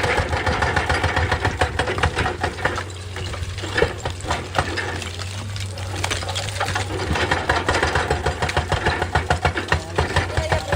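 Excavator's diesel engine running hard with a fast, rhythmic clatter.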